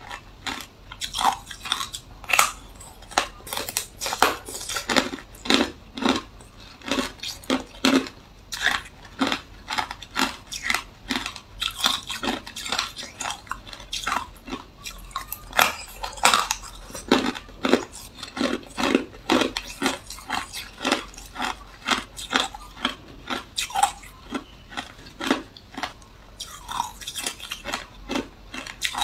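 Close-miked chewing of hard clear ice: a steady run of sharp, irregular crunches and cracks, several a second, as the ice is bitten and ground between the teeth.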